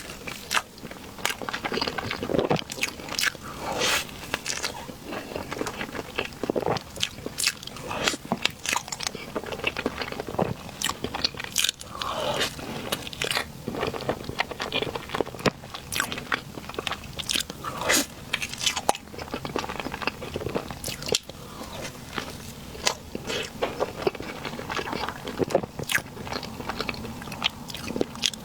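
Close-up mouth sounds of a person eating Basque cheesecake in big bites: chewing with many short sharp clicks and smacks.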